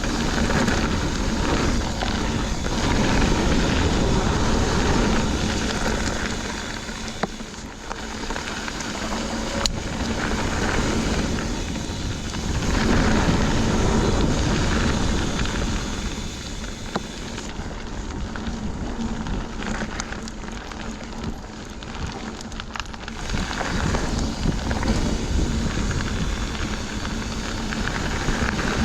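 Mountain bike riding fast on a dirt trail: wind rushing over the microphone and tyres rolling, swelling and fading with speed, with scattered knocks and rattles from the bike over bumps.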